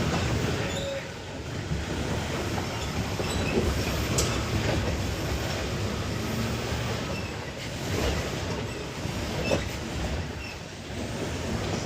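Off-road 4x4 truck engine rumbling steadily under load on a steep climb, with rattling and a few sharp knocks from the truck.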